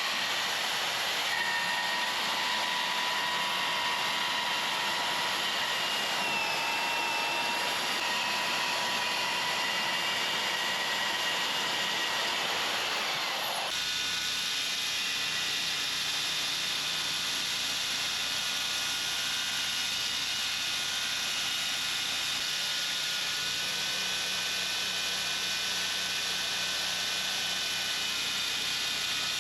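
Power tool running steadily with a high whine that shifts slightly in pitch; about 14 seconds in the sound changes abruptly to a duller, steadier machine hum.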